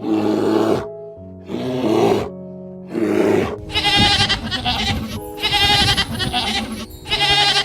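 Animals bleating over background music with held tones: three separate calls in the first few seconds, then a run of quavering, rapidly repeated bleats.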